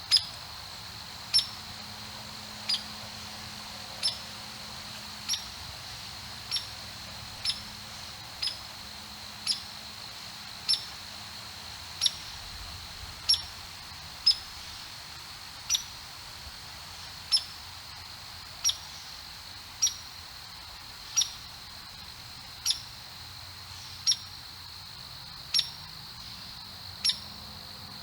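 Chipmunk giving its repetitive single-note chip call, one sharp high chip roughly every second and a half, steady and unbroken.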